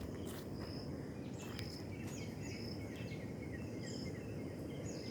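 Small birds chirping: short high notes, several sliding downward, repeating every half second or so over a steady low outdoor rumble.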